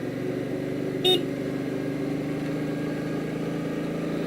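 Motorcycle engine running steadily at low revs, with a single short beep about a second in.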